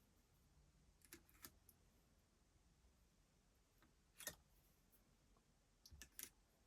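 Near silence, broken by about five faint, sharp clicks, the loudest just past the middle and two close together near the end.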